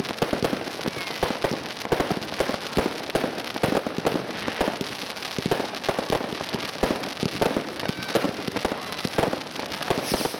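Class 2 consumer fireworks going off in quick succession: a dense run of bangs and crackling as shots launch and burst, several a second with no pause.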